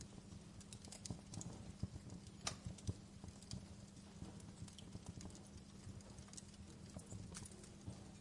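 Wood fire crackling in a fireplace: irregular sharp pops and snaps over a faint burning hiss, with a louder pop about two and a half seconds in.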